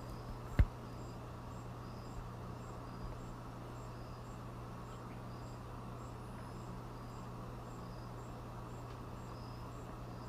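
Insects, likely crickets, chirping faintly and evenly about twice a second over a steady low hum, with one sharp click about half a second in.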